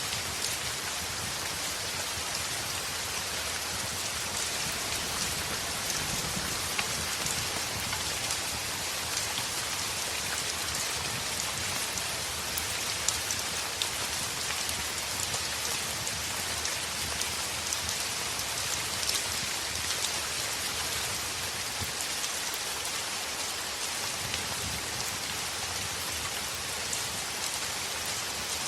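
Heavy rain on a window glass: a steady dense hiss with scattered sharp taps of drops, with the crackle of a wood fire mixed in.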